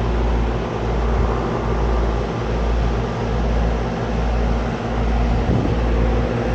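Carrier central air conditioner's outdoor condensing unit running: steady compressor hum under the condenser fan's rush of air, with a low throb that pulses a little more than once a second. The system has just been switched on after a refrigerant recharge.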